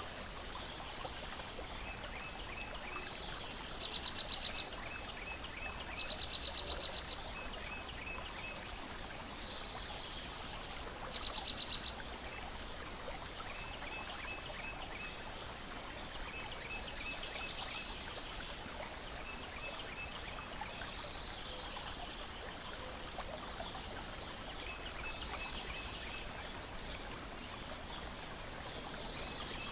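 Lakeside water ambience: a steady wash of small waves lapping. Soft groups of quick chirps recur throughout, and a louder rapid trilling call sounds three times in the first dozen seconds.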